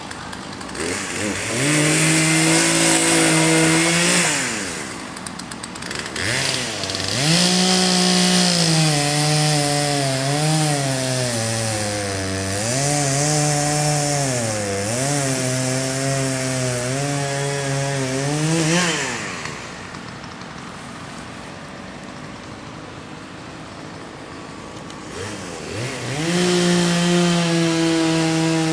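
Gas chainsaw revved up three times: briefly about a second in, for about twelve seconds from about seven seconds in with its pitch wavering and sagging under load, and again near the end. It runs quieter at low speed in between.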